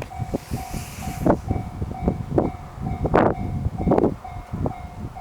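Japanese level-crossing warning bell ringing about twice a second as a container freight train passes, its wheels knocking over the rail joints; the heaviest knocks come about three and four seconds in.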